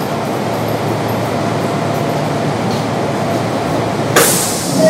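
Kintetsu 3200 series electric train standing at a station, its onboard equipment giving a steady hum and rush. A short burst of hiss comes near the end.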